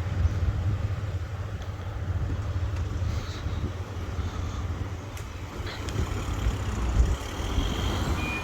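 Vehicle rumbling past at a level crossing: a steady low rumble with road or rail noise over it.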